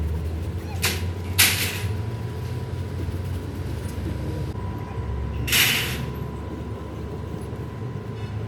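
A steady low engine-like drone, broken by three short hisses of air: a brief one about a second in, a longer one just after, and the loudest about two-thirds of the way through.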